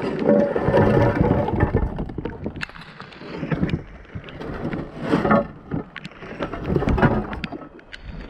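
Scrap and wire being rummaged through and handled in a dumpster: irregular knocks, clicks and rustling, muffled by a waterlogged GoPro.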